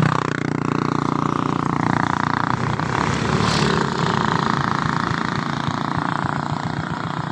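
Motorcycle engine running steadily, with a brief drop in pitch right at the start as the revs fall.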